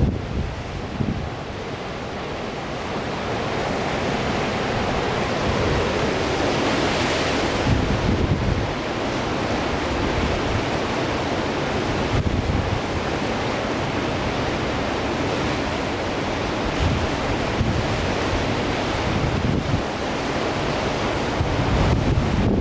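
Sea surf breaking and washing in a strong wind, with gusts buffeting the microphone in a low rumble; a louder, hissing surge swells about seven seconds in.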